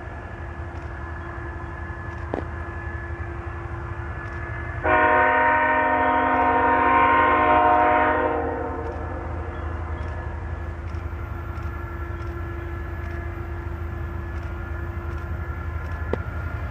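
Diesel freight locomotive's air horn sounding one long blast of about three and a half seconds, a chord of several steady notes, over the locomotive's steady low rumble.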